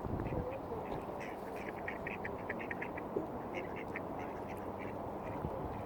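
Mallard ducks quacking in quick runs of short calls, over a steady low background noise.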